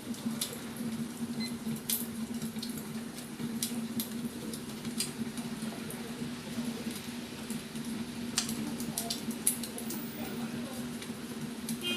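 Wood fire crackling: sharp, irregular pops and snaps from burning firewood over a steady low hum.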